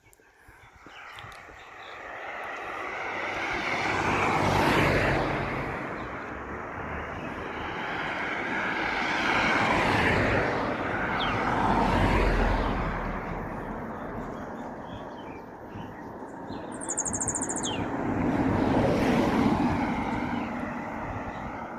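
Road vehicles passing one after another, each a rushing noise that swells up and fades over a few seconds. A bird chirps briefly about three-quarters of the way through.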